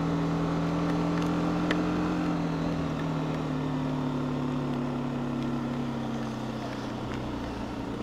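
TVS Apache RTR 310's single-cylinder engine running at low road speed, its steady note drifting slowly lower from about two seconds in as the motorcycle slows.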